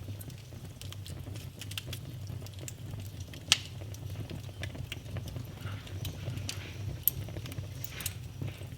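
Wood fire burning in a fireplace, crackling with irregular sharp pops over a steady low rumble; two pops stand out, one about three and a half seconds in and another about seven seconds in.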